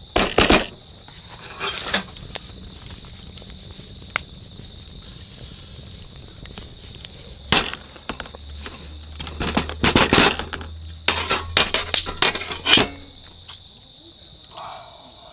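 Cookware and utensils clattering and knocking in short clusters as camp food is prepared, busiest in the second half. Steady insect chirring runs underneath.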